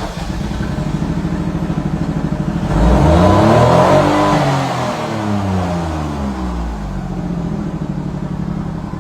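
Fiat Argo's Firefly engine idling, then revved once about three seconds in: the pitch climbs and then falls back to a steady idle.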